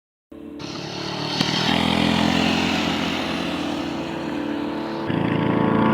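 Small gasoline engine starting up out of silence and running, its speed stepping up about a second and a half in and again, louder, near the end.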